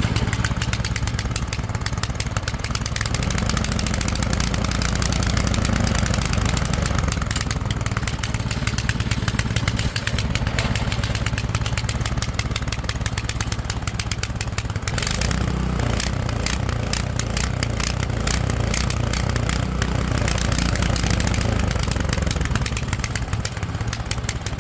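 Toro Power Clear 721 E snowblower's single-cylinder four-stroke engine running steadily, its note shifting about three seconds in and again about fifteen seconds in. It is running again after a carburettor gummed by stale fuel was cleaned.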